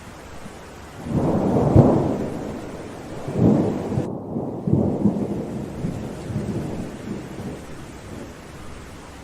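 Thunder rumbling over a steady hiss of rain: a loud roll swells about a second in, two more swells follow, and the rumble then dies away. The rain hiss briefly drops out about four seconds in.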